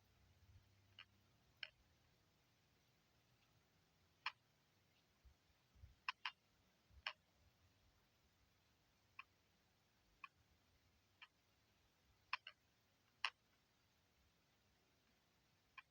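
Near silence broken by about a dozen faint, sharp clicks at irregular intervals, some coming in quick pairs.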